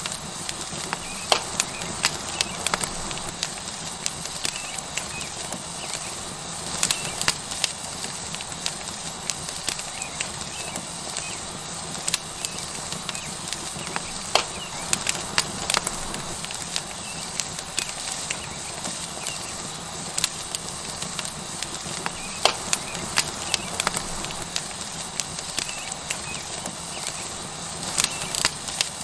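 Tomahawk steak sizzling on a hot rock over a wood fire: a steady hiss broken by frequent sharp crackles and pops.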